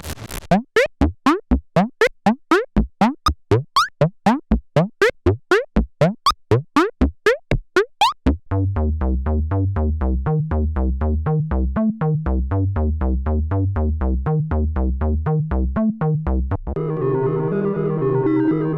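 Roland SE-02 analog monosynth playing sequenced factory preset patches. First comes a run of short notes, each sweeping upward in pitch, about three a second. About eight seconds in it switches to a looping deep bass pattern, and near the end another patch takes over with a busier pattern of mid-range notes.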